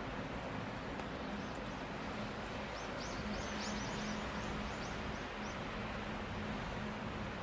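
Steady hiss of falling rain with a low steady hum under it. About three seconds in, a bird gives a quick run of short high chirps lasting about two and a half seconds.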